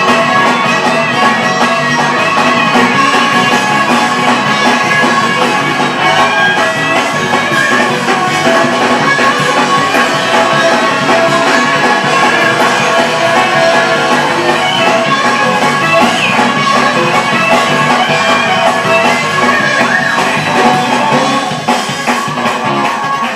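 Instrumental gospel praise-break music played by a band, with no singing.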